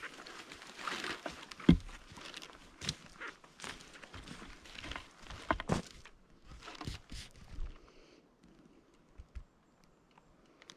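Footsteps on dry forest-floor litter, irregular and rustling, with a few louder knocks. They fade out after about eight seconds.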